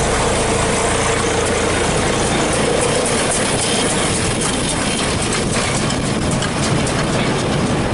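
New Holland 648 round baler running empty, driven from the John Deere tractor's PTO, its belts and rollers turning over the steady running of the tractor engine. A patter of light clicks and knocks comes through in the later part.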